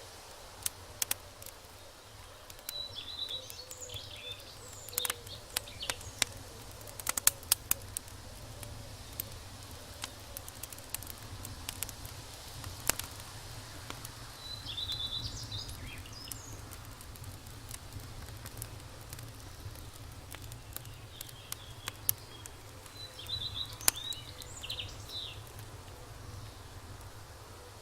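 Birds chirping in short bursts, three times, over a steady low rumble. Scattered sharp clicks and pops come mostly in the first half.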